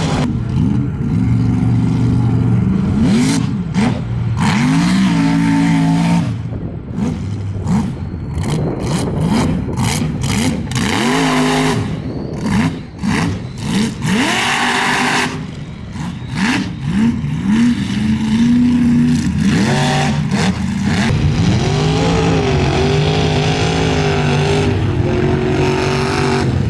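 Mud truck engine revving hard again and again, its pitch climbing and dropping back, with bursts of rushing noise in the middle.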